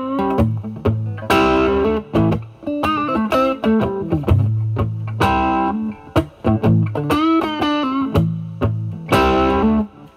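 Stratocaster electric guitar played through a Vertex Steel String Clean Drive overdrive pedal, gain at 9, into the drive channel of a Marshall Valvestate amp. It plays a bluesy improvised passage mixing low bass notes, chord stabs and bent single-note licks, with a light overdrive.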